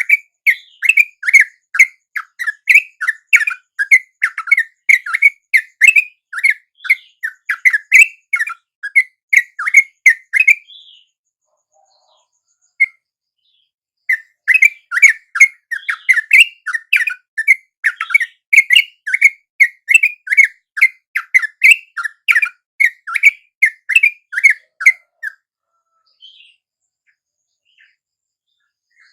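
Yellow-vented bulbul chattering: a fast, even run of harsh notes, about three a second, in two long bouts of roughly ten seconds each with a pause of a few seconds between them.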